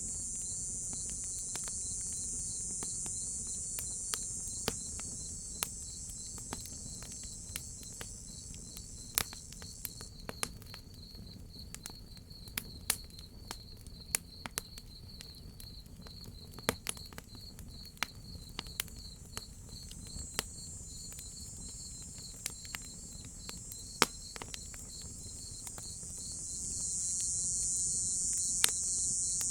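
Crickets chirping steadily under a high, hissing insect chorus of cicadas that fades out about a third of the way in and swells back louder near the end. Scattered sharp pops of a crackling wood fire sound throughout.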